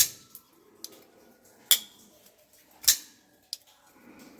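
CJRB Arcane Crawler folding knife being snapped open and shut in a cave: a run of about six sharp metallic clicks, the loudest two about two and three seconds in.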